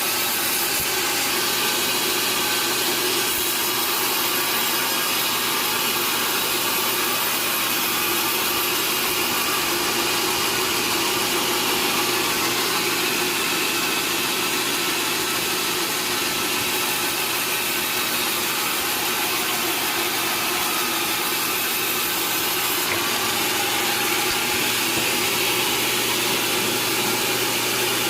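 Sawmill machinery running steadily: an even, unbroken mechanical noise with a constant motor hum.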